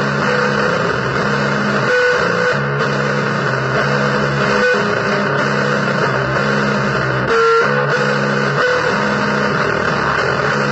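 Distorted, effects-laden electric guitar playing blues-style noise music: low chords held and repeated with short breaks over a thick wash of hiss and distortion, with a brief louder accent about seven and a half seconds in.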